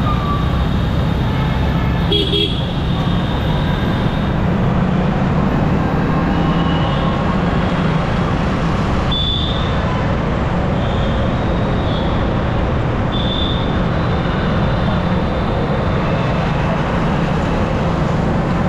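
Motorcycle riding steadily through road traffic, the single-cylinder engine running at a constant pitch under wind and road noise. Short high horn beeps from the surrounding traffic sound a few times.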